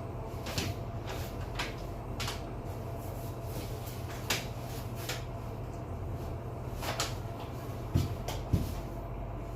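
Steady low hum of an elevator with a faint steady tone over it, scattered light clicks, and two dull thumps about eight seconds in.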